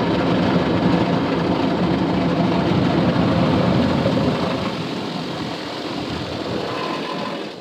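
Automatic car wash machinery running: a loud, steady rushing wash over the truck with a low machine hum under it. It eases a little from about halfway and falls away abruptly near the end.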